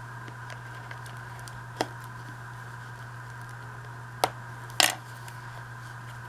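Paper envelope being folded and creased by hand: three short crisp paper sounds, about two seconds in and twice near the end, over a steady background hum.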